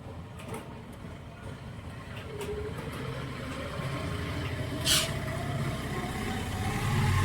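A motor vehicle's engine running, its pitch rising slowly over the last few seconds, with a sharp click about five seconds in.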